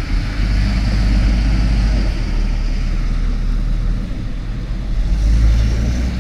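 Fire ladder truck's engine running, a steady low rumble that swells slightly near the end.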